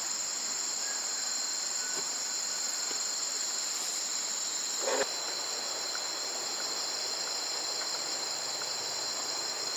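Steady, high-pitched chirring of an insect chorus, unbroken throughout, with one brief short sound about halfway through.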